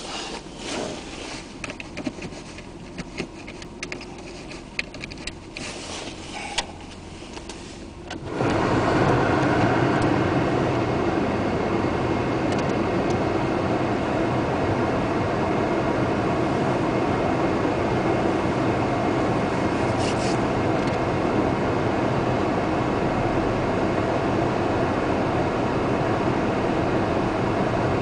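A car in a storm: a few clicks and knocks, then about eight seconds in a loud, steady rushing noise of rain and road sets in suddenly and holds.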